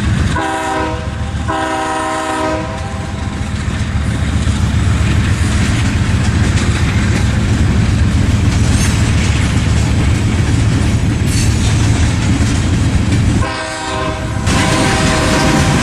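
Locomotive horn sounding two blasts of about a second each, then another blast near the end, over the steady rumble of a passing train.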